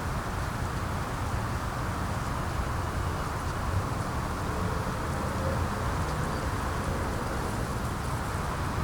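Steady outdoor ambience on a windy day: wind noise with a fluttering low rumble, and a few faint, short high ticks.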